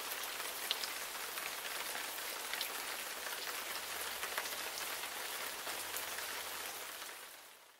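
Steady rain falling outside, a continuous hiss of rain on surfaces dotted with small drop ticks; it fades out at the very end.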